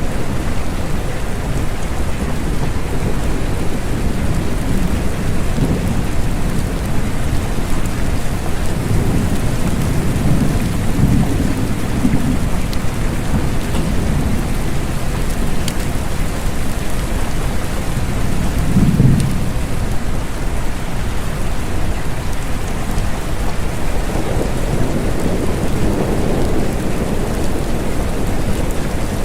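Steady rain with low rumbles of distant thunder rolling underneath, swelling a few times and loudest about two-thirds of the way through.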